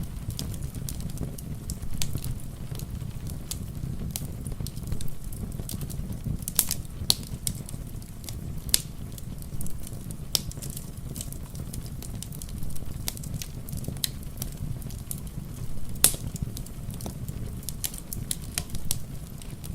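Wood fire crackling: irregular sharp pops and snaps, the loudest about sixteen seconds in, over a steady low rumble.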